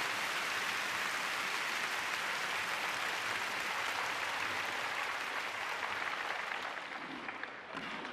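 Arena crowd applauding a skater's introduction, a steady wash of clapping that thins and fades out over the last couple of seconds.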